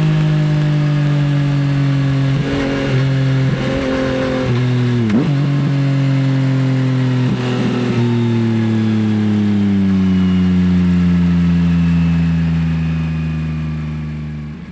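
Yamaha XSR900 SP's inline three-cylinder engine running through an Akrapovič exhaust, heard from the rider's seat. The engine note is steady with a few brief changes in the first half, then falls slowly as the bike eases off, fading out at the very end.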